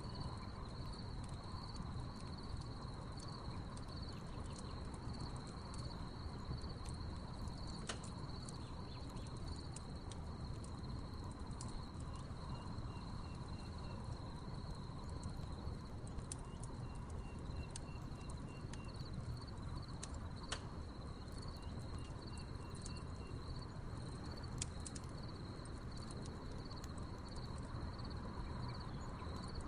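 Wood campfire crackling with scattered sharp pops, over a steady chorus of chirping crickets. Three times a short run of quick, evenly spaced high pips sounds among the crickets.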